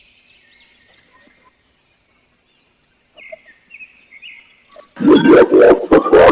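Green imperial pigeon's deep, pulsed cooing calls, repeated fast and loud, starting about five seconds in. Before that there are only a few faint, high chirps.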